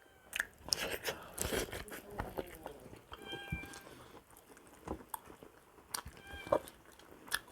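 Close-miked chewing and biting on buffalo trotter, with sharp clicks and wet crunches. Twice a short high-pitched call cuts in, about three and six seconds in.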